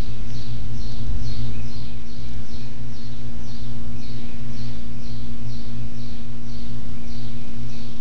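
Short high chirps, each falling in pitch, repeating about twice a second over a steady low hum.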